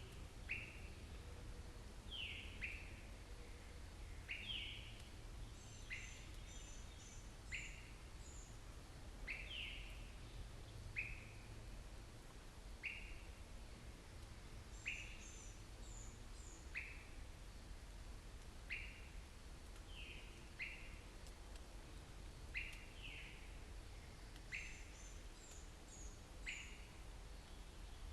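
Wild birds calling: one bird repeats a short, downward-slurred note every second or two, while another gives small clusters of high, thin notes a few times. A steady low rumble runs underneath.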